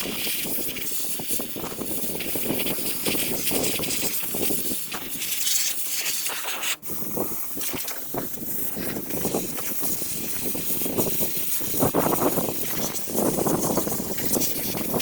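A steady spraying hiss with irregular louder rustling swells over it, cutting out for an instant about seven seconds in.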